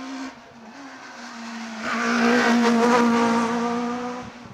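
Rally car engine held at high revs as the car climbs past. It grows louder from about a second in to a peak around the middle, then fades just before the end.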